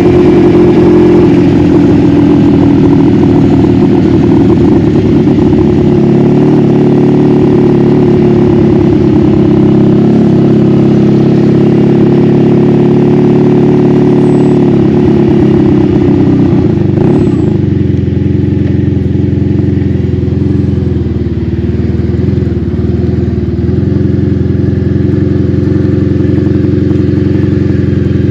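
1986 Honda Magna V45's V4 engine running steadily while the motorcycle is ridden, heard from on board. About halfway through the note shifts and the engine sound becomes a little softer and duller.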